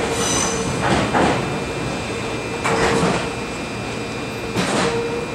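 Meitetsu commuter train pulling away along the tracks, its wheels clattering over rail joints and points in separate bursts about one to two seconds apart, over a steady rumble of rolling stock.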